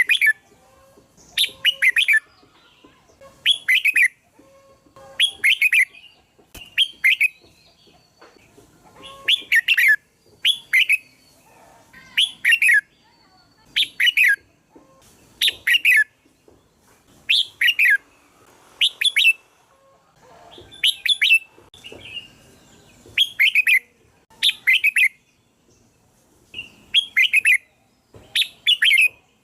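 Red-whiskered bulbul singing: short, bright, warbling song phrases repeated over and over, roughly one every second or two, with brief pauses between them.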